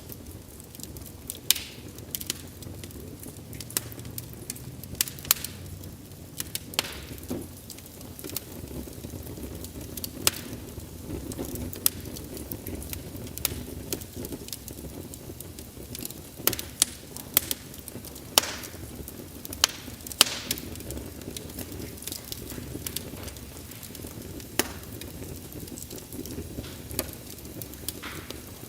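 Wood fire burning with a steady low rumble and hiss, broken by frequent sharp, irregular crackles and pops of the burning logs, a few louder pops standing out.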